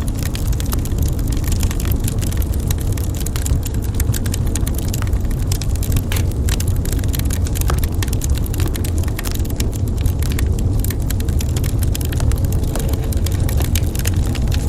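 Wood fire burning in a fireplace: a dense run of sharp crackles and pops over a steady low rumble.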